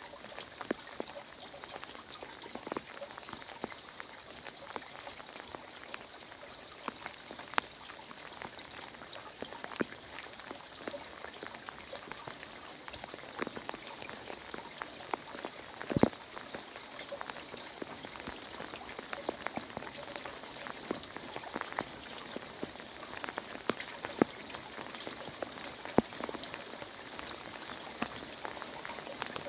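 Heavy rain falling: a steady hiss with many single drops and drips tapping on hard surfaces close by, one about halfway through the loudest.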